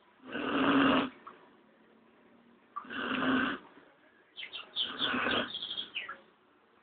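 Dog snoring in its sleep: three snores about two and a half seconds apart. The last is longer, with a string of short high whistles running through it.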